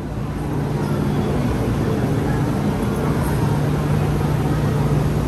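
MTR M-Train running, a steady hum with a rumble underneath that grows louder over the first second and then holds.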